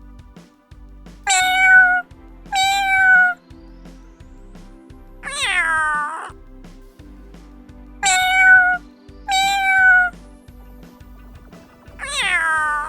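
A domestic cat meowing six times over background music: two short level meows, then a longer meow falling in pitch, and the same pattern again.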